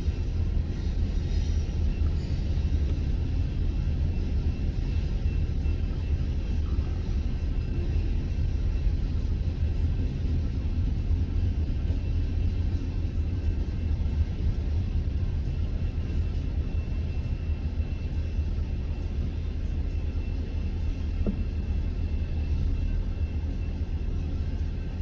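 Double-stack intermodal freight train rolling past, a steady low rumble of its cars' wheels on the rails.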